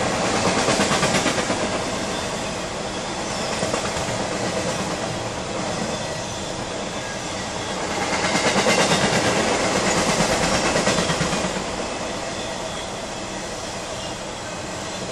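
Freight cars rolling past at close range: steel wheels rumbling and clicking rhythmically on the rails. The sound swells about a second in and again from about eight to eleven seconds in as cars go by.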